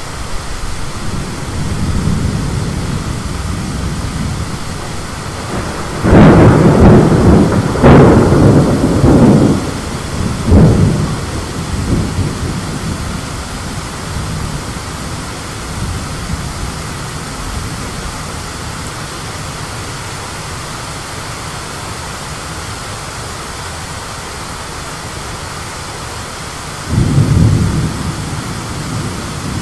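Thunderstorm: a steady hiss of wind and rain, with a loud peal of thunder about six seconds in that rolls on in several surges for about five seconds, and another thunderclap near the end.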